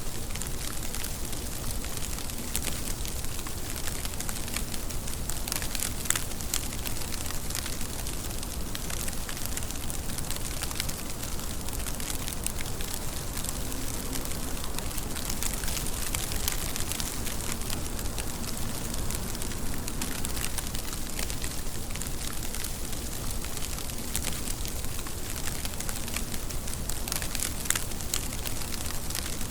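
Steady rain: an even hiss dotted with many small drop ticks, with a couple of sharper hits, one about six seconds in and one near the end.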